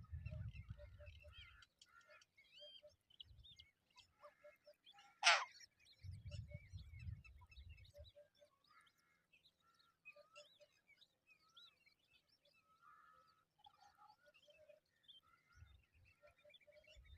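Birds chirping and calling in many short notes, with one loud, sharp call about five seconds in. Bursts of low rumble come near the start and again about six seconds in.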